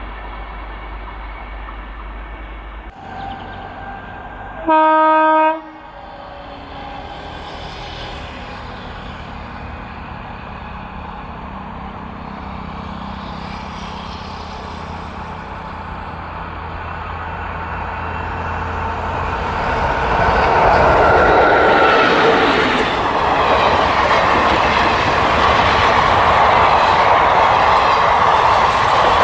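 An Indian Railways train horn sounds one short, loud blast about five seconds in. From about twenty seconds in, a train's rumble and wheel clatter grow loud as it comes by.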